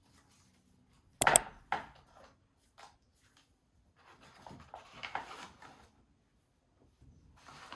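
Household objects being handled: a sharp double knock of something hard set down about a second in, a smaller knock just after, then soft rustling and shuffling of things being moved.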